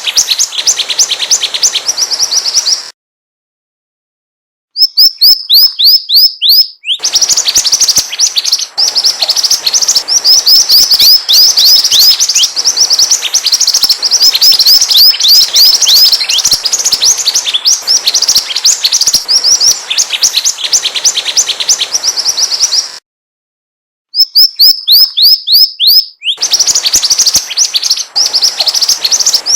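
Mantenan bird song played as a lure call: fast, continuous runs of high, downward-sweeping chirps. The song cuts out to silence twice, for about a second and a half around 3 s in and for about a second around 23 s in.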